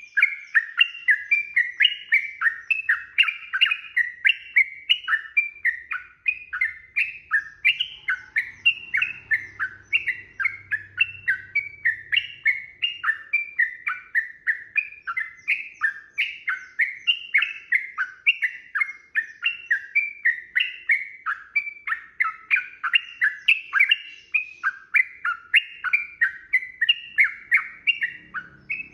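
Yellow-vented bulbul (trucukan) singing a long unbroken run of rapid, bubbling whistled notes, about three a second, without a pause.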